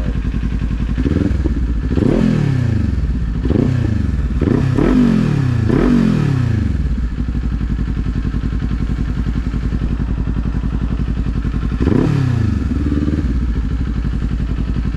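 Kawasaki Z400's parallel-twin engine running. In the first half it revs in several short rises that each fall back, then it runs steadily. It revs once more near the end.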